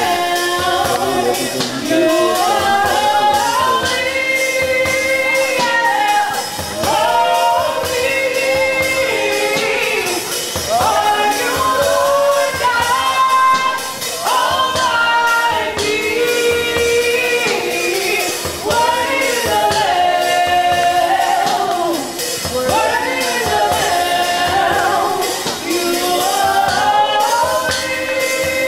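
Live gospel worship music: singers hold and slide between sustained notes in phrases a couple of seconds long over a band with a steady beat.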